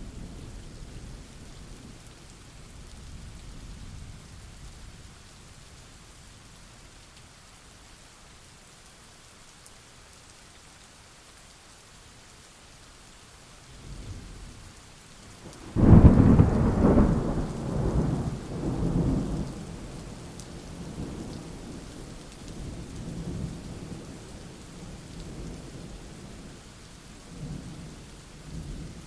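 Steady rain with thunder. Distant rumbling fades in the first few seconds, then a sudden loud thunderclap about halfway through rolls on in waves for several seconds before settling back to rain and low rumbles; another peal begins right at the end.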